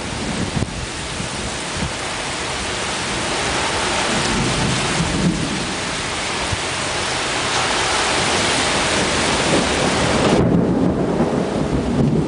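Thunderstorm: steady heavy rain hissing with thunder rumbling low underneath, the rumble building louder. About ten seconds in the high rain hiss thins out while the low rumble carries on.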